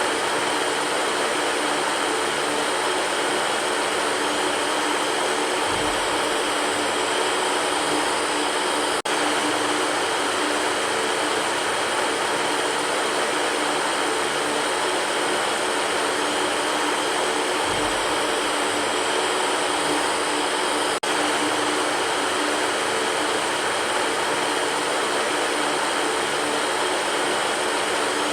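Electric fan running with a steady rush of air over a faint low hum. The sound dips for an instant twice.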